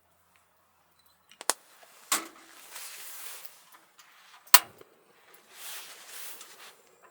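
Handling noises: sharp clicks or taps about one and a half, two and four and a half seconds in, the last the loudest, with bursts of rustling between them.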